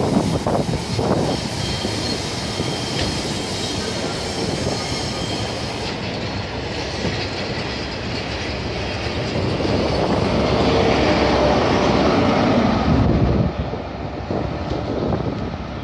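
High Speed Train (InterCity 125) moving off: Mark 3 coaches rolling past on the rails, then the rear Class 43 diesel power car passing, loudest about ten to thirteen seconds in, before the sound drops as it draws away.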